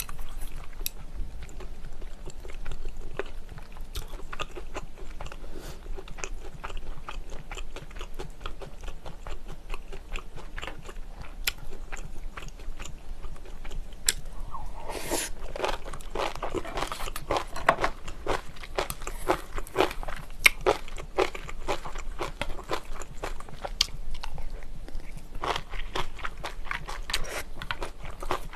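Close-miked chewing and crunching of kimchi, a run of quick crisp crunches with small mouth clicks. It grows much louder and denser about halfway through, as a fresh bite of kimchi is crunched.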